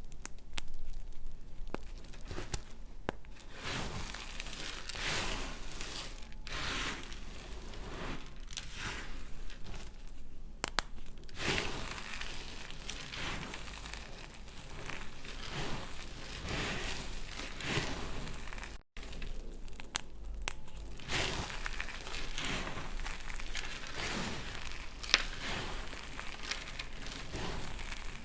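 Blade cutting into dry laundry soap bars, a run of repeated crumbly, crunching strokes, with a brief gap about two-thirds of the way through.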